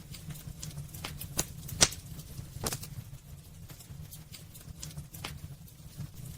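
Wood burning in a fireplace, crackling with irregular sharp pops and snaps, the loudest a little under two seconds in, over a low steady rumble of the fire.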